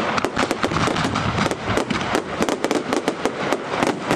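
Aerial fireworks bursting: a dense, unbroken run of sharp cracks and bangs, several a second, over a constant rumble.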